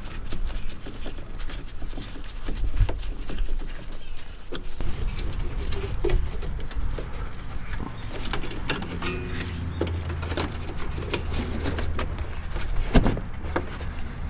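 Scattered clicks and knocks of hand work on the car, over a steady low hum that grows stronger about five seconds in, while oil is drained from the driver's side intercooler of a Porsche Cayenne Turbo.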